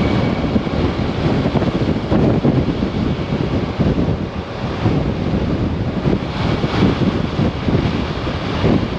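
Heavy wind buffeting the microphone of a Kymco AK 550 maxi-scooter riding through high winds: a loud, uneven rush that swells in gusts, with the scooter's running sound buried beneath it.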